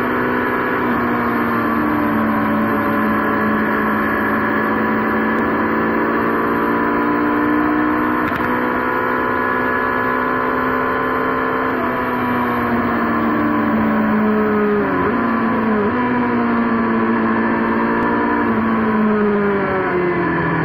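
Motorbike engine running on the move, a steady pitched drone over road and wind noise; the engine note shifts about halfway through and dips and climbs back twice near the end, as the revs drop and rise.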